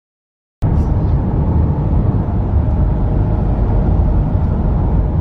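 Steady road and engine rumble heard from inside a moving camper van, cutting in abruptly about half a second in after dead silence.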